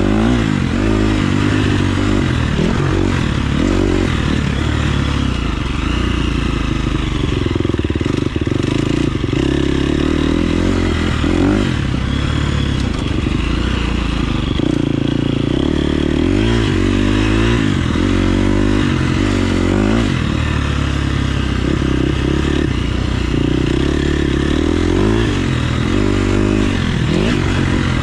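KTM 350 SX-F's single-cylinder four-stroke engine under way on a motocross track, its revs rising and falling over and over with the throttle.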